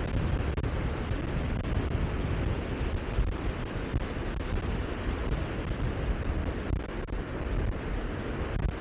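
Wind buffeting the microphone: a steady rushing noise with a rapid low rumble.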